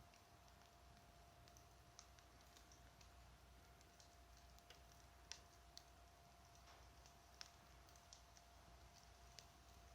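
Wood fire crackling faintly: sparse, irregular snaps and pops, about half a dozen sharper ones, over a faint steady hum.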